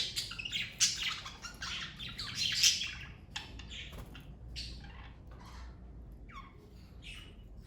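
A family of pet budgerigars (Australian parakeets) chirping. The chirps are dense and overlapping for the first three seconds or so, then thin out to scattered single chirps.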